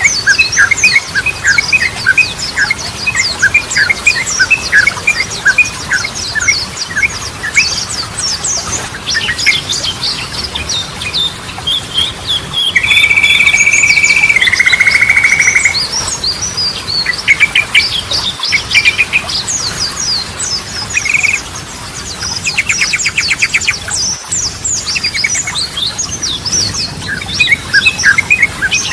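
Sooty-headed bulbul song: dense, rapid chirping and chattering phrases, with one loud held whistle about 13 seconds in that steps down to a lower note.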